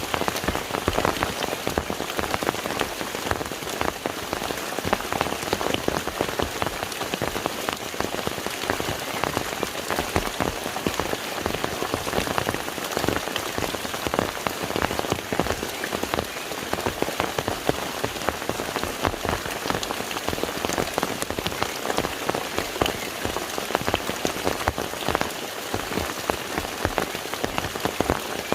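Steady rain falling on a lake's water, a dense patter of many individual drops.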